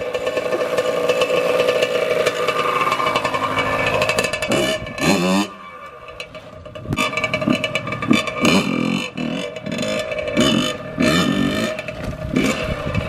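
85cc two-stroke dirt bike engine running and being revved, its pitch rising and falling. It dips about five seconds in, then picks up again with a series of rev swells.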